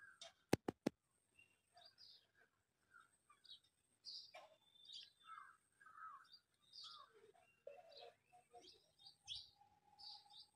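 Birds chirping faintly, scattered short calls throughout. A few sharp clicks about half a second in.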